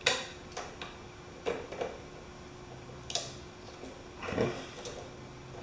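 Scattered light clicks and taps of small metal parts, bolts and hand tools being handled on a lawn mower engine, about eight in all, with a slightly heavier knock about four and a half seconds in.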